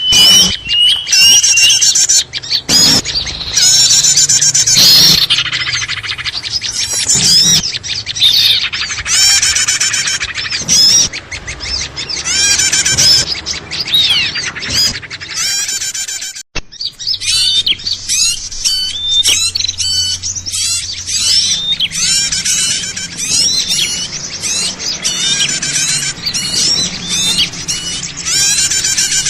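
Dense, noisy chorus of many small birds chirping, trilling and squawking over one another, the kind of recording used as a lure to call small wild birds in. It drops out for an instant about halfway through.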